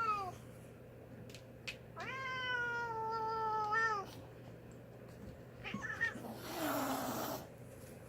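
An annoyed house cat yowling: a long, drawn-out yowl of about two seconds, a short cry, then a sharp hiss near the end. This is a warning that it is displeased at being touched.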